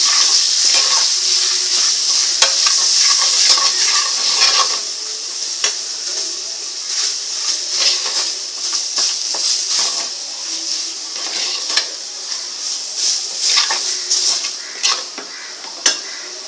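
Coconut, coriander, ginger and garlic masala paste sizzling in oil in a metal pan while a steel spoon stirs and scrapes it, with frequent clicks of the spoon against the pan. The sizzle grows gradually quieter toward the end.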